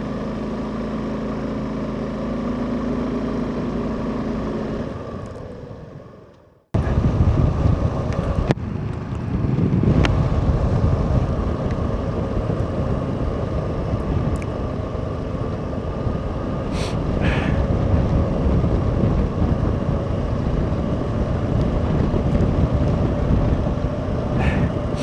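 Suzuki V-Strom SX 250's single-cylinder engine running at a steady pace, fading out about six seconds in. After a break it returns under heavy wind buffeting on the microphone as the motorcycle rides on through the storm.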